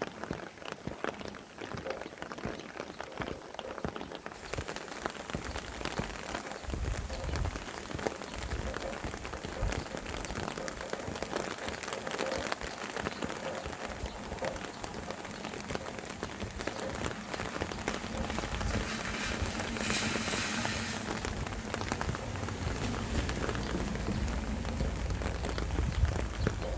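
Steady rain falling on surfaces: a dense patter of drops. About seven seconds in, a low wind rumble sets in and grows stronger, with a brief rise in hiss near the middle.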